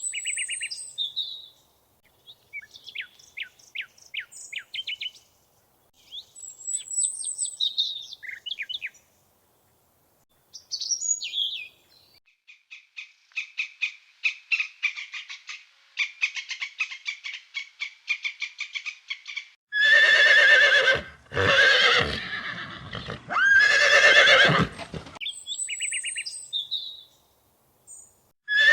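Birds chirping in short high calls, then a long, fast trill, followed by horses whinnying loudly about three times; a few more bird chirps come near the end.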